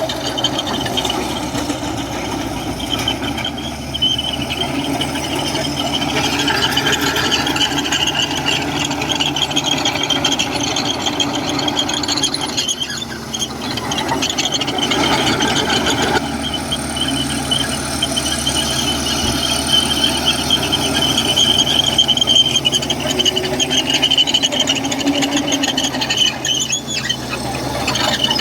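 Komatsu crawler bulldozer at work: diesel engine running steadily under load, with a continuous high squeal from its steel tracks and undercarriage.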